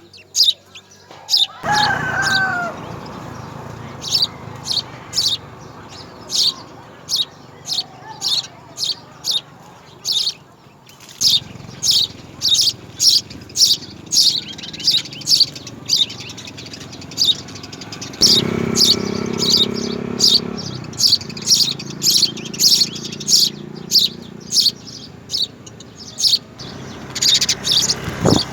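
House sparrow chirping over and over, short sharp high-pitched chirps about one to two a second.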